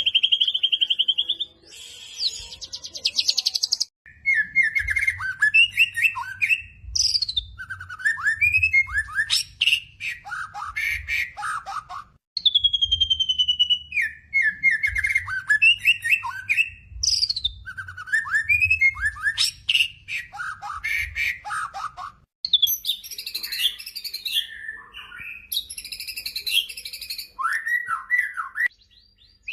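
White-rumped shama (murai batu) song: loud, varied whistles and warbles in quick phrases, played as spliced recording segments that cut off abruptly. The same run of phrases repeats about eight seconds later.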